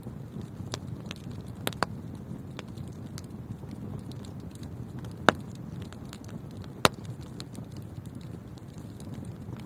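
Wood fire burning in a fireplace: a steady low roar of flames with scattered crackles and sharp pops, the loudest two pops about five and seven seconds in.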